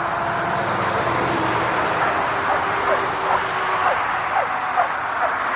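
Steady rushing noise of a jet airliner's engines, with a faint steady tone early on and short falling chirps over it from about a second in.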